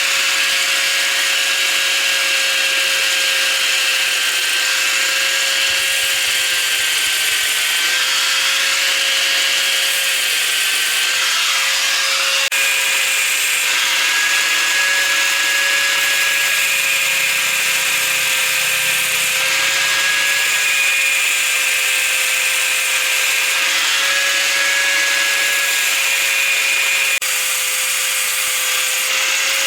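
An electric power tool starts suddenly and runs continuously at a steady high whine, its pitch wavering slightly now and then as it works against the material.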